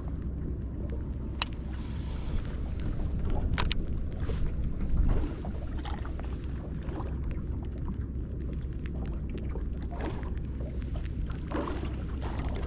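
Steady low rumble of wind and water around a small fishing boat, with a few sharp clicks or knocks, the first about a second and a half in and two close together around three and a half seconds in.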